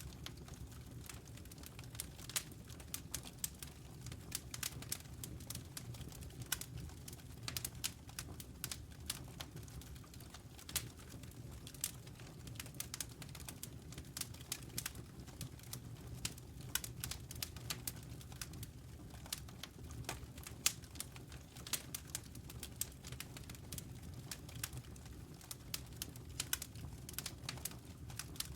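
Wood campfire crackling, with frequent irregular sharp pops and snaps over a low, steady rumble.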